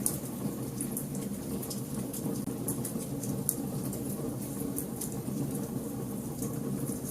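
Wood fire in a fireplace crackling: irregular sharp snaps and pops scattered over a steady low rumble of the flames.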